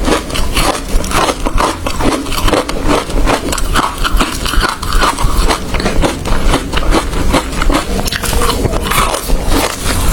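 Hard ice being bitten and chewed close to the microphone: a fast, continuous run of loud crunches and cracks.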